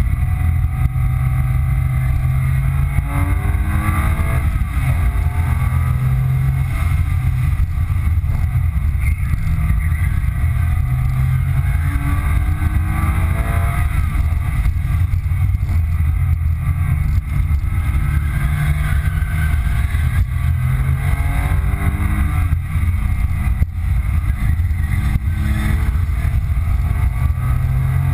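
2005 Porsche 997 Carrera 2's flat-six engine under hard acceleration, heard from inside the cabin. The engine note climbs through the revs and drops back at each gear change, several times over, over a constant low rumble of road and wind noise.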